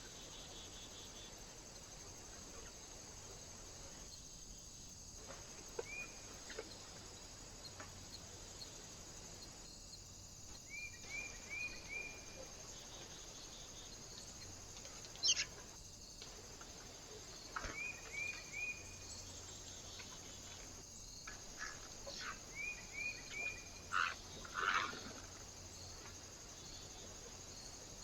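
Small birds at a feeder giving short chirps in quick runs of three or four, with a few sharp taps. Behind them is the steady hiss of a trail camera's microphone, which drops out briefly every few seconds.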